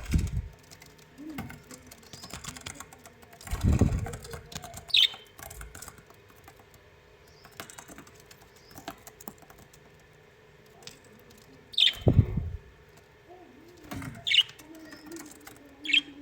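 A bird chirping briefly four times, with several loud, low fluttering thumps that may be wing flaps.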